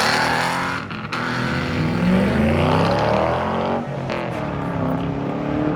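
Ford Mustang engine revving hard, its pitch rising and falling several times, with brief dips about a second in and again near the four-second mark.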